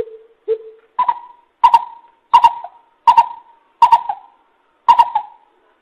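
Coucal (bìm bịp) giving its hooting call series: two lower hoots, then about six higher, louder hoots in an even run, roughly one every 0.7 s.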